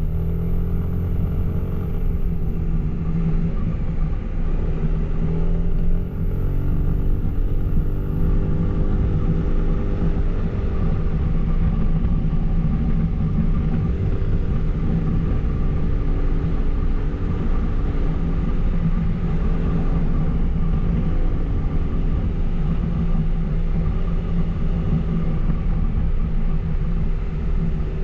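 Suzuki Burgman 400 maxi-scooter's single-cylinder engine running through its stock exhaust while riding, its pitch rising and easing back several times with the throttle.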